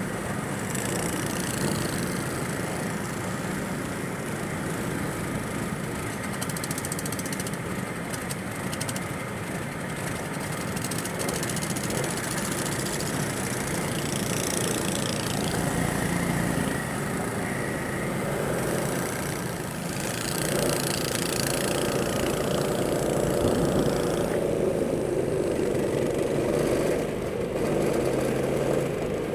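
Go-kart engine running continuously, its pitch shifting and the sound growing a little louder over the last third.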